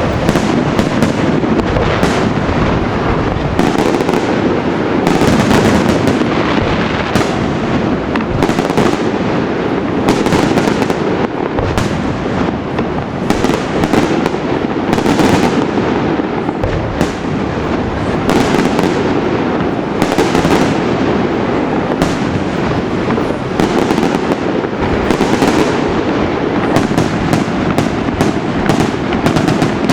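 Fireworks display in full barrage: a dense, unbroken stream of bangs and crackling shell bursts, many shots following close on one another with no pause.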